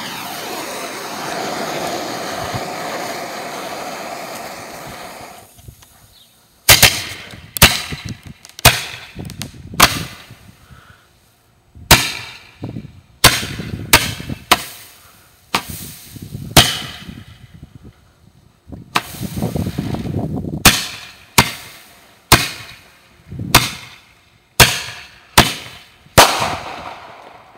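A consumer multi-shot aerial firework cake: a hiss for about six seconds as it burns down, then a rapid, irregular run of about thirty sharp bangs, often in quick pairs, as the shots launch and burst.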